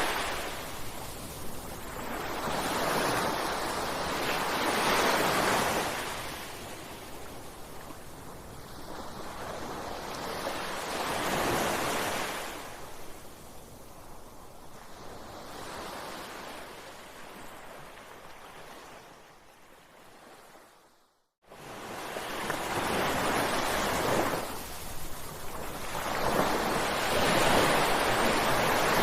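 Ocean waves breaking on a shore, each surge of surf swelling and washing back every few seconds. The sound cuts out completely for a moment about two-thirds of the way in, then the waves resume.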